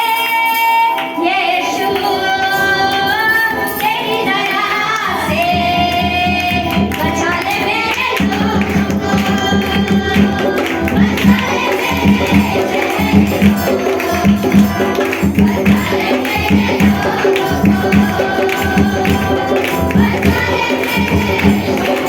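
Worship song with singing and tambourine. A steady drum beat comes in about five seconds in.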